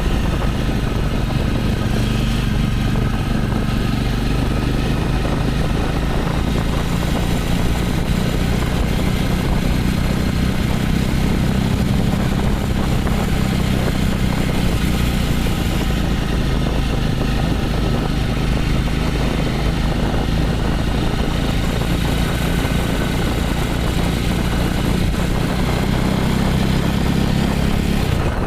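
Jawa 300 motorcycle engine idling steadily.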